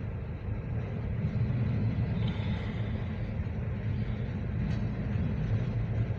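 Freight cars of a local freight train rolling past, a steady low rumble of steel wheels on the rails.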